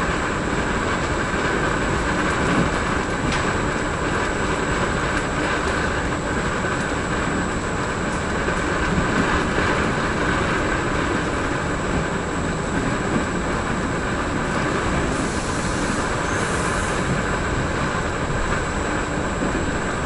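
Running noise of a Vivalto double-deck regional train heard from on board: a steady rumble of wheels on rail with a faint steady high tone, and a short high hiss about three-quarters of the way through.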